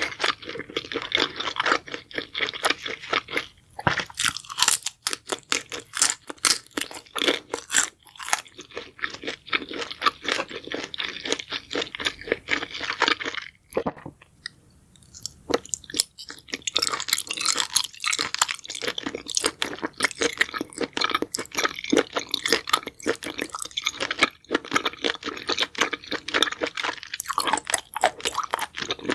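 A person chewing crunchy food: a dense, continuing run of crisp crunches, easing off for a couple of seconds about halfway through before the crunching picks up again.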